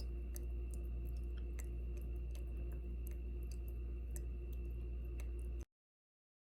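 Steady low electrical hum with a few faint scattered clicks, cutting off abruptly to dead silence about two-thirds of the way through.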